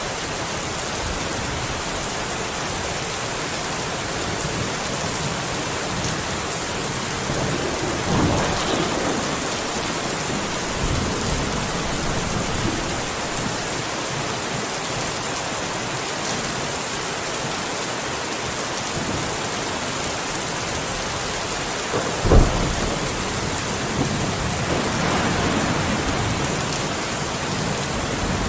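Steady rain falling in a thunderstorm, with a roll of thunder about eight seconds in, a sharp thunderclap about two-thirds of the way through, and more rumbling after it.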